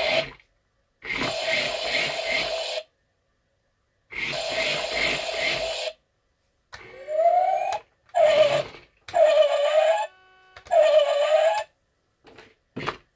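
Toy remote-controlled Scania fire engine's built-in electronic siren sounds from its small speaker, played in separate bursts of one to two seconds that stop abruptly with silence between. About seven seconds in one burst rises in pitch like a siren winding up, followed by several shorter clips.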